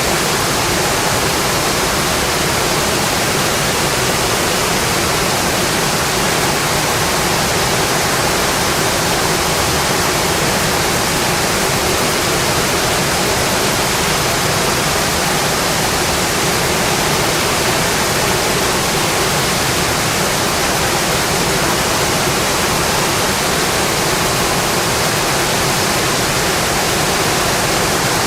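Steady, dense rain, heard as an even hiss with no separate drops or crackles standing out.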